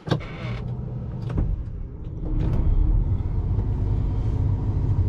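Combine engine running with a steady low rumble, a few sharp clicks over it in the first seconds; the engine gets louder about two and a half seconds in.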